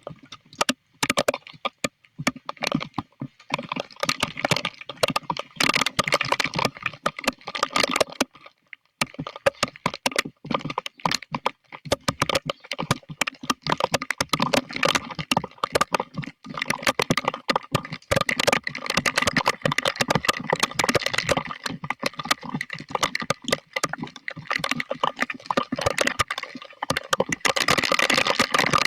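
Storm rain striking a hard surface close by: a dense, irregular patter of sharp taps that eases off briefly a few times.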